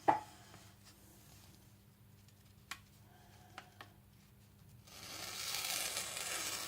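Freshly sharpened nakiri blade slicing through a sheet of paper in a cutting test, a steady smooth hiss starting about five seconds in. Before it, a sharp knock near the start and a few light clicks as the knife and paper are handled.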